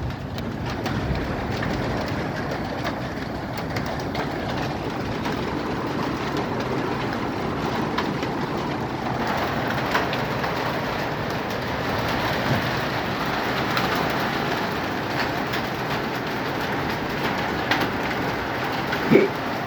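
Hail and heavy rain pelting down: a steady, dense hiss with many scattered sharp clicks of hailstones striking, and one brief louder sound near the end.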